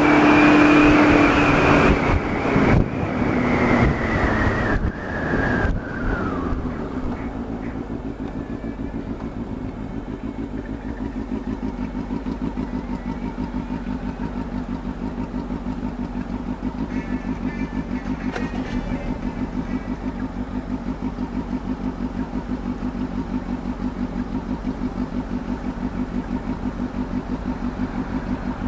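Motorcycle engine slowing from speed, its pitch falling over the first few seconds, then settling into a steady, evenly pulsing idle.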